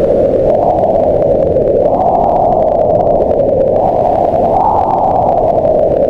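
Wind howling: a steady, loud moan that swells and sinks in pitch every second or two.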